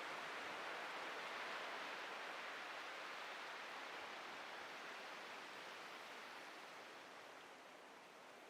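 Ocean surf on a beach: a steady hiss of breaking and washing waves that slowly fades toward the end.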